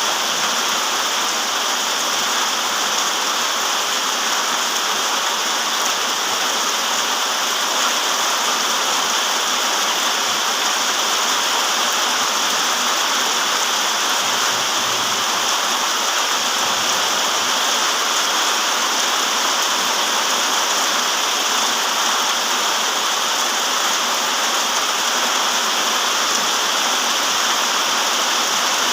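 Steady, even rain with no distinct drops standing out.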